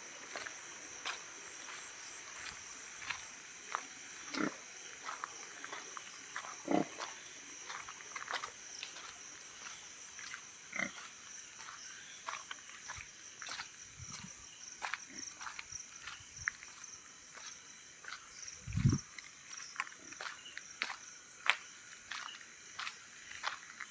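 Night insects, crickets or similar, trilling steadily at a high pitch, with scattered short ticks and clicks and a few low thumps, the loudest about nineteen seconds in.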